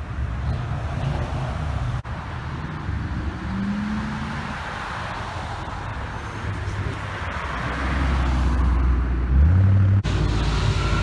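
Car engines running as cars pull away, with one engine revving up quickly about nine seconds in.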